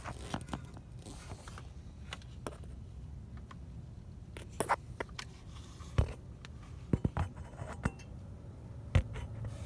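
Scattered small clicks and knocks from hands handling things, loudest about six and nine seconds in, over a low steady hum.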